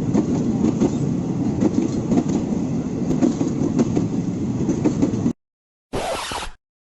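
Train running on the rails: a steady rumble with repeated wheel knocks over rail joints. It cuts off suddenly about five seconds in, and after a brief gap a short, different burst of noise follows.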